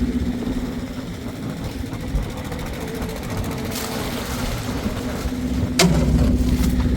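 An engine running steadily with a low hum, easing off through the middle and picking up again, with one sharp knock near the end.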